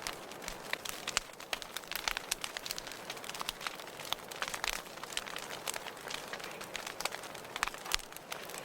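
Wood fire in a fireplace crackling: a steady hiss with irregular sharp pops and snaps, several a second.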